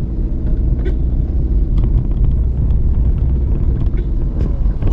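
Car running along a road while being driven: a steady low engine and road rumble with a held engine tone.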